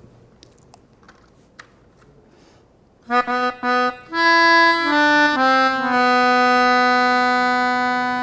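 A free-reed instrument plays a short phrase about three seconds in: three quick stabbed notes, then a few held notes stepping down in pitch and settling on one long held note.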